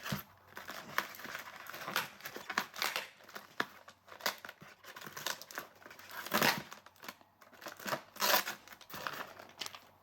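Packaging crinkling and rustling in irregular bursts as it is handled, loudest twice in the second half.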